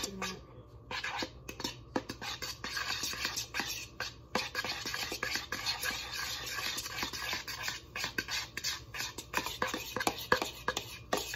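A fork or spoon stirring and breaking up microwaved egg in a dish, with a quick run of irregular clicks and scrapes against the dish.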